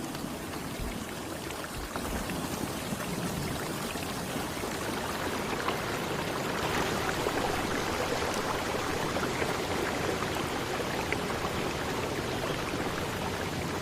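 Steady rush of running water, an even hiss that grows slightly louder about two seconds in.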